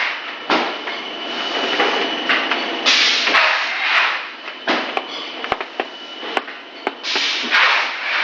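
Extruder machine running: a steady mechanical rush with a thin high whine, swelling into loud hissing surges about half a second, three seconds and seven seconds in, with scattered sharp knocks and clatter.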